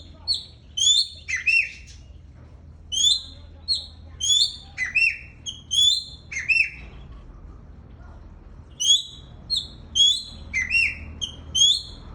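A caged songbird singing loud, clear whistled phrases, each a quick run of sharp notes, in three bursts with short pauses between.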